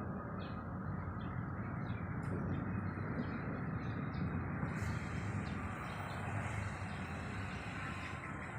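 Birds chirping in short repeated calls over a steady low rushing outdoor background noise.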